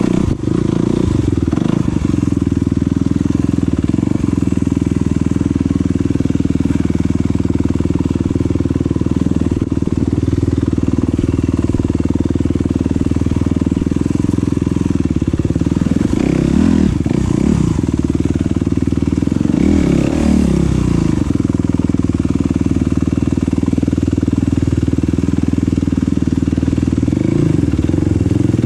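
Enduro motorcycle engine running continuously, its revs rising and falling twice past the halfway point.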